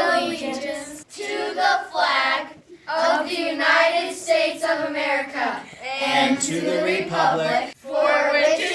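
Children singing, in short phrases with held notes and brief breaks between them.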